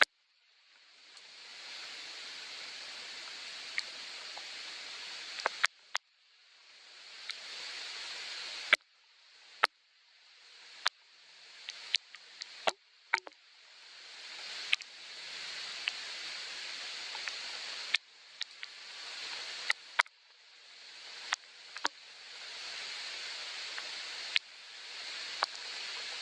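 Steady rain hiss with sharp, loud drips striking a hard surface every second or so. After each loud drip the hiss drops away and swells back over a second or two.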